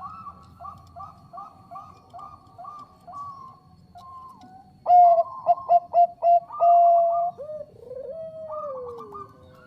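Zebra dove (Thai-bred Bangkok perkutut) cooing: a quick, evenly paced run of soft notes, then about five seconds in a louder burst of short staccato coos, a held note and a long falling coo.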